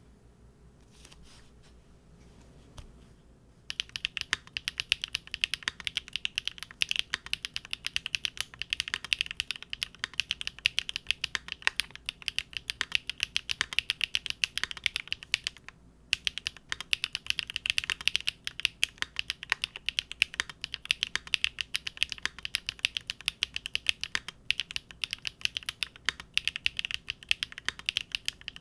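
Fast, continuous typing on a Linworks Big Whale custom mechanical keyboard with GEON Raw Zero switches on a polycarbonate plate. The keystrokes start a few seconds in, stop briefly about halfway through, then run on.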